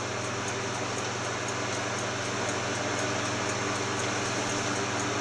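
Steady machine hum and hiss with a faint regular tick, about three a second.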